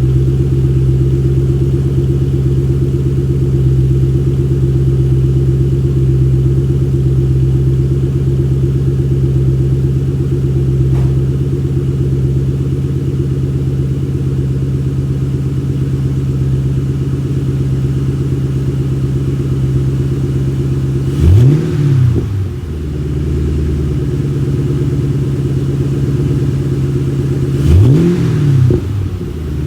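2005 Ford Mustang GT's 4.6-litre V8 idling steadily through a Borla S-Type axle-back exhaust. It is revved twice in short blips, about 21 seconds in and again near the end, with the pitch rising and dropping back to idle each time.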